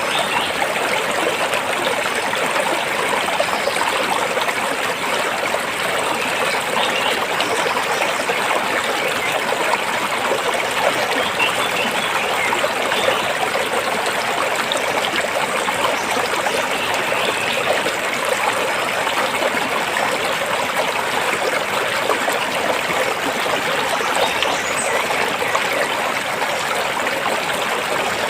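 Stream water flowing and splashing between rocks, a steady, even rush of running water.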